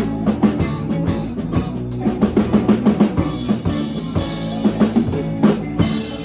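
Live band playing, with a drum kit's kick and snare hits over sustained bass and guitar tones; a run of quick drum strikes comes through the middle.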